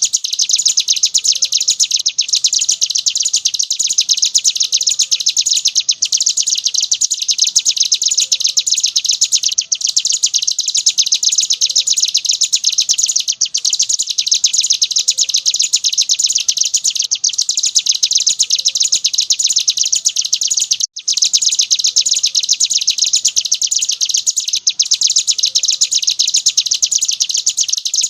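Ciblek gunung, a prinia, singing in 'ngebren' style: a very fast, high, unbroken trill, pausing only briefly every three to four seconds.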